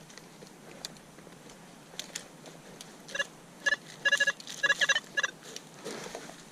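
Metal detector beeping on a target: about a dozen short electronic beeps in a quick, uneven series from about three to five seconds in, after a few faint clicks.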